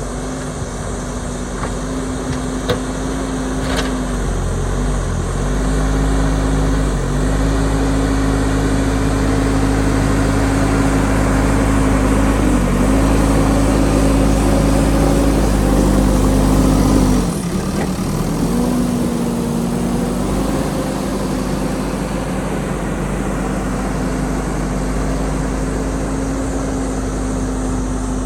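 JCB backhoe loader's diesel engine running under load while it digs, its note dipping briefly in pitch several times as the hydraulics load it, then easing off and dropping in level a little past halfway.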